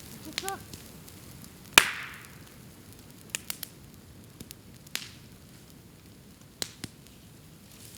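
Bamboo burning on a bonfire, the fire crackling with sharp cracks and pops as the culms burst in the heat; the loudest crack comes about two seconds in, with smaller ones scattered after. A brief high squeal is heard near the start.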